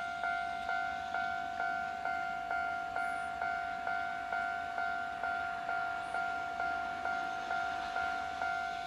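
Japanese railway level-crossing warning bell ringing steadily, a struck electronic tone repeating about twice a second, each strike fading before the next.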